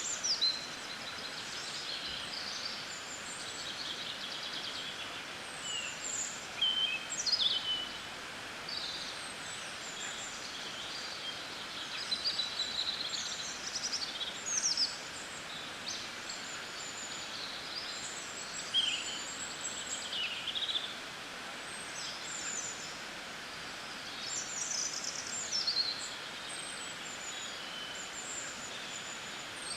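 Several wild birds chirping and singing in short, quick phrases, some sweeping down in pitch, scattered throughout over a steady background hiss.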